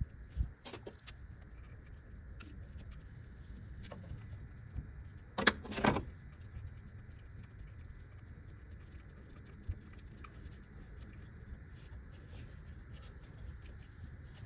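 Scattered light metallic clinks and taps of hand tools working a 12mm bolt loose on the engine's air-conditioning compressor hardware, with a louder double clatter about five and a half seconds in.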